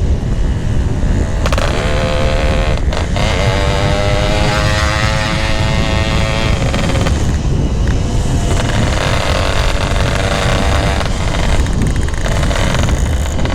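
Yamaha RX-King two-stroke single with a GRT18 K26 aftermarket exhaust, running while being ridden. Its note climbs in pitch as it accelerates, twice over, with short breaks in between.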